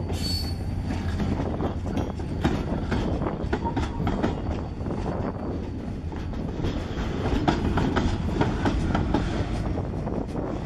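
Log-loaded freight cars rolling past close by: a steady rumble of steel wheels on rail with clicking and clanking as they cross the rail joints, and a brief high squeal right at the start.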